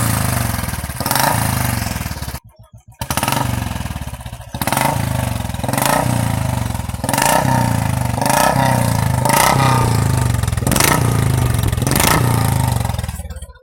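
Royal Enfield Classic 350's single-cylinder engine, breathing through an aftermarket short bottle exhaust, revved in repeated quick throttle blips about once a second between thumping idle. It is loud, and it cuts off abruptly near the end.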